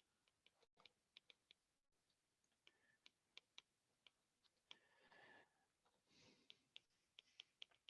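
Near silence with faint, irregular small clicks of writing, about fifteen of them scattered through the pause.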